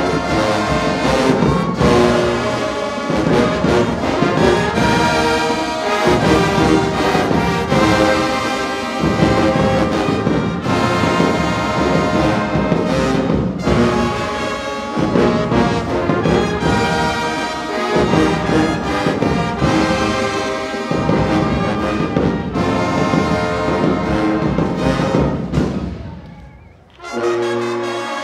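High school marching band's brass section playing a concert selection, trombones and trumpets loud and full. Near the end the music drops away for a moment, then the band comes back in.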